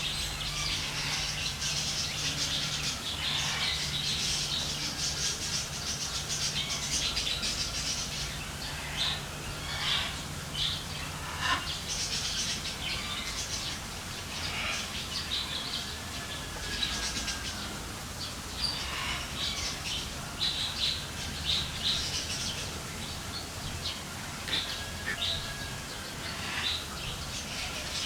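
Small birds chirping and twittering in quick, repeated calls throughout, over a low steady hum that fades out about eleven seconds in.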